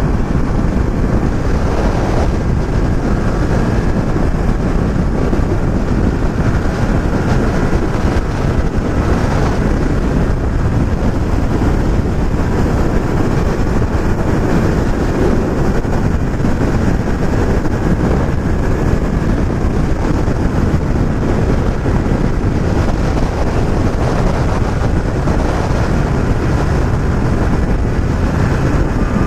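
Motorcycle riding steadily at road speed: a loud, even rush of wind over the microphone, with the running engine of a Yamaha MT-07 parallel twin underneath.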